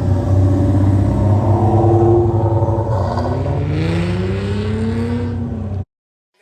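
Car engine running with a heavy low rumble, then accelerating, its pitch rising steadily from about three seconds in, until it cuts off suddenly near the end.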